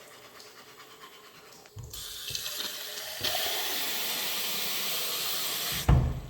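Water running steadily, louder from about three seconds in, then a loud thump near the end as it stops.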